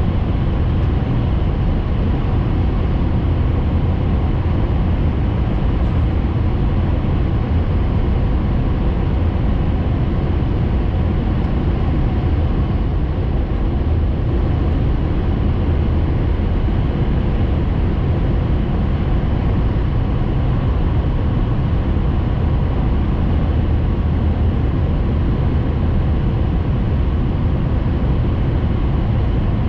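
Steady rumble and rush of a Hayabusa Shinkansen train running at speed, heard from inside the passenger cabin.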